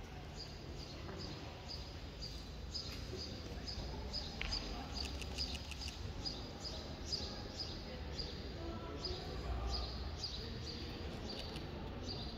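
Small birds chirping over and over in short high notes, with a quick run of chirps about five seconds in, over quiet room tone.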